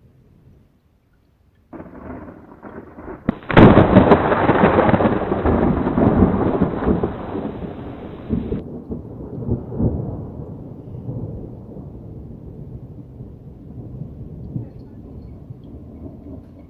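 Thunder: a low rumble begins about two seconds in, then a loud clap breaks about three and a half seconds in and rolls on, fading slowly over the following seconds.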